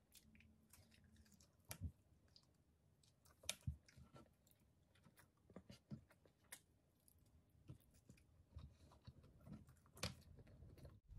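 Faint close-up chewing: wet mouth clicks and lip smacks from a mouthful of fried pompano and rice eaten by hand, a few louder smacks standing out.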